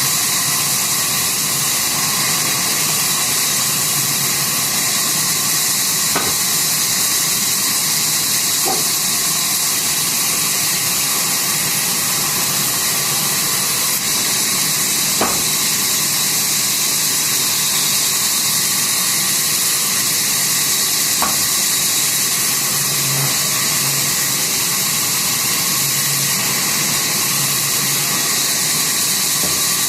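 Sawmill saw machinery running with a steady, high-pitched hiss, with a few faint clicks.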